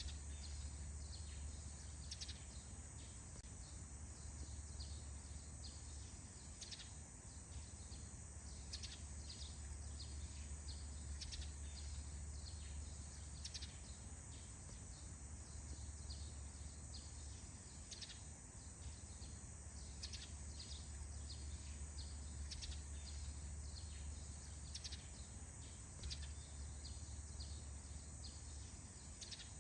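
Small birds chirping in many short, quick repeated calls, a faint dawn chorus over a steady high hiss and a low steady rumble.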